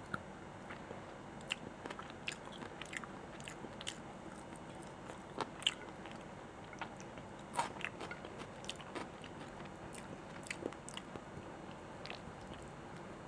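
A person chewing and biting food close to the microphone: scattered, irregular mouth clicks, with a few louder bites near the middle.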